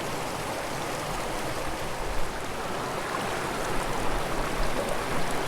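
Small mountain creek running steadily, with a brief tap about two seconds in.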